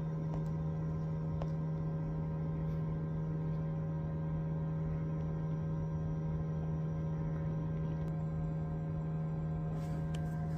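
Nibe F750 heat pump compressor running with a steady, even hum.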